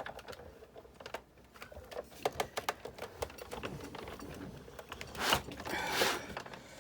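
Hand-cranked Sizzix Big Shot die-cutting machine being worked, a rapid series of clicks and ticks from the handle, rollers and plates, with two louder rasping sounds about five and six seconds in.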